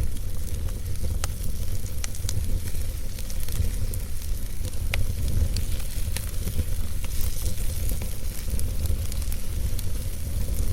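Wood fire burning in a fireplace: a steady low rumble and hiss of the flames, with sharp crackles and pops from the logs scattered through, the clearest about five seconds in.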